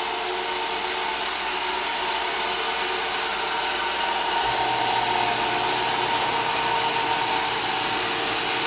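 Roomba robot vacuum cleaner running as it crosses onto carpet: a steady motor whir with a thin high whine. A low hum joins about halfway through.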